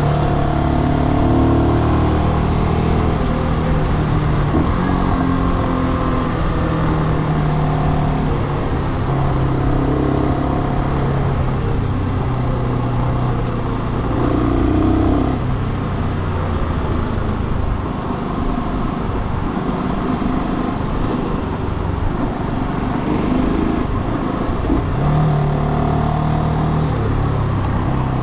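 Brixton Cromwell 250 motorcycle's single-cylinder engine while riding, its pitch climbing under throttle and stepping back down several times as it changes gear.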